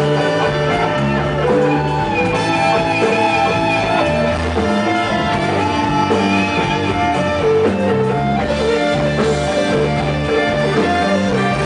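Blues band playing an instrumental passage, with guitar lines carrying the tune over bass.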